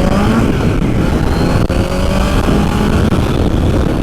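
Kawasaki Z900 inline-four motorcycle engine accelerating under load on the road, its pitch rising at the start and again about a second and a half in, as it pulls through the gears.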